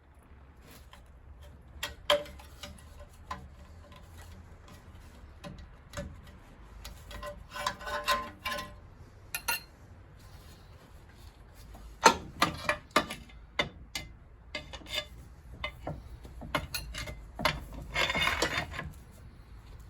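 Hand tools and metal scrap parts being handled: scattered clicks and knocks, a quick run of sharp knocks about twelve seconds in, and a short scraping rasp near the end.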